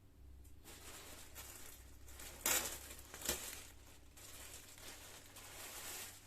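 Rustling and crinkling of material being handled, with two sharper, louder rustles about halfway through.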